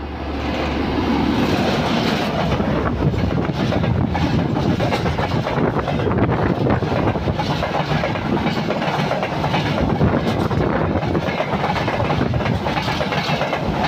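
A train of LHB passenger coaches hauled by a WAG-9 electric locomotive running past close by: a loud, steady rumble of wheels on rails with rapid clicks over the rail joints, swelling over the first second or two and then holding.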